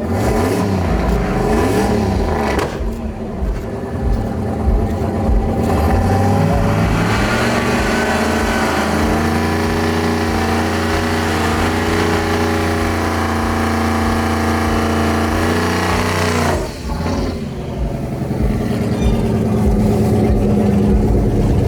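Truck engine revving hard. It rises and falls at first, then is held at steady high revs for about ten seconds, drops off sharply, and climbs again.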